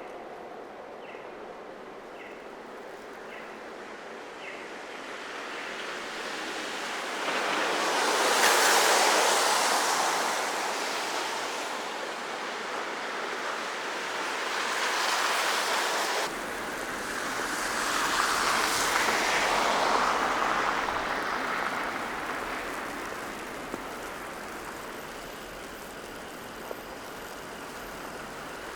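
Cars passing one after another on a snowy, slushy city street, their tyre hiss swelling and fading three times over a steady traffic background.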